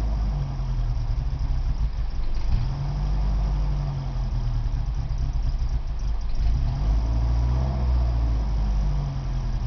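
1986 Isuzu Trooper II's 2.3-litre 4ZD1 four-cylinder engine running at an uneven idle, its note wavering up and down several times. It doesn't quite want to idle right, a fault the owner thinks lies in the head.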